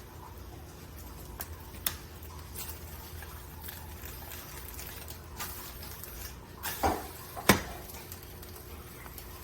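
Eggs frying in a ceramic-coated non-stick pan, a soft steady sizzle, with a few light clicks and two sharper knocks near the end from a utensil against the pan.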